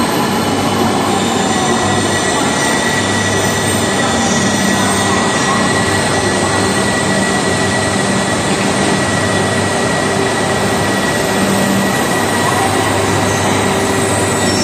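Coupled E2 and E3 series Shinkansen train pulling slowly into the platform of an underground station: a steady rumble of wheels and motors with a low hum and a thin, high squeal held throughout, echoing off the enclosed platform.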